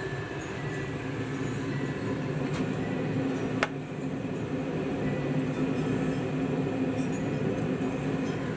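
Freshly lit gas water heater burner running: a steady low rumble with a hum, and one sharp click about three and a half seconds in.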